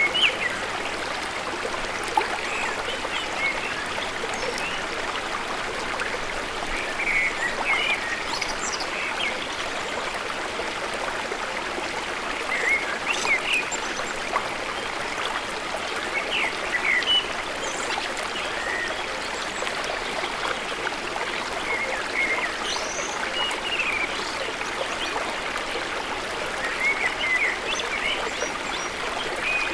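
Steady rush of a flowing stream, with birds giving short chirps and whistled calls on and off over it.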